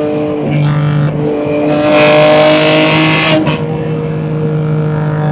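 BMW M2 G87's S58 twin-turbo inline-six, fitted with catless downpipes and an equal-length mid pipe, running at steady revs while cruising. Midway, a loud rushing noise swells for about a second and a half, ending in a brief sharp click.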